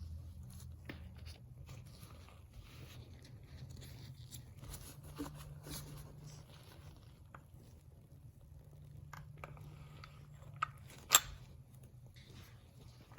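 Handling noises from a CO2 BB pistol kit: scattered light clicks, rustles and scrapes over a steady low hum. One sharp click about eleven seconds in, just after a smaller one, is the loudest sound.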